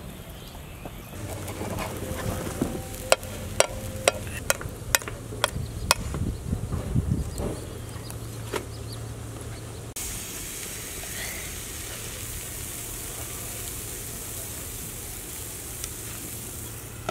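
Pancake batter sizzling on a hot iron griddle over a wood fire, a steady hiss that steps up abruptly about ten seconds in. In the first half comes a quick string of sharp clicks, about two a second.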